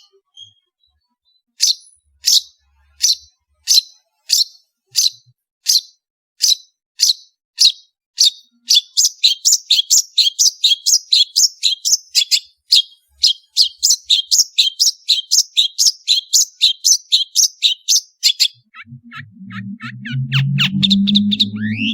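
Long-tailed shrike (cendet) calling: a sharp, high, falling note repeated about twice a second, speeding up to about four or five a second from around nine seconds in. Near the end the notes thin out and a low humming of pitched tones comes in.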